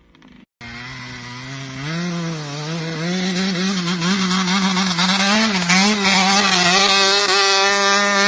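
A 125 cc two-stroke dirt bike engine revving hard, starting suddenly about half a second in, its pitch climbing near two seconds in and then wavering up and down with the throttle as the bike works up the hill.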